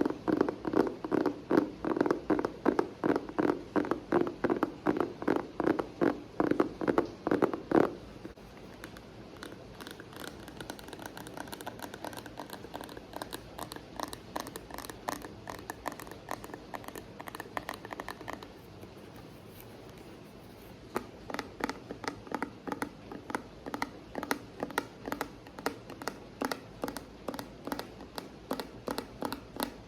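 Rhythmic ASMR tapping on objects, about three taps a second: loud, deep-sounding taps for the first eight seconds, then lighter taps with a higher ring, a brief lull about two-thirds of the way in, and steady tapping again to the end.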